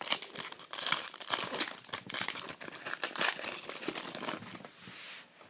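Foil trading card pack wrapper being torn open and crinkled by hand, a dense run of irregular crackling that dies down near the end.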